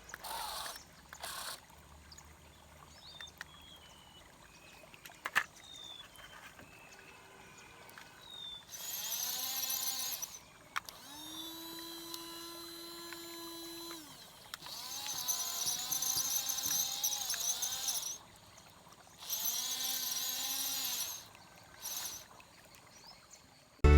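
Small electric motors of a toy RC bulldozer whirring in several bursts of a few seconds each, with short quiet gaps between them as the controls are worked.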